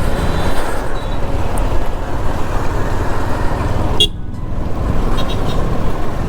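Riding a motorcycle through town traffic: steady wind rumble on the microphone over the engine noise, with a brief horn toot about a second in. The noise drops away suddenly for a moment just after four seconds in.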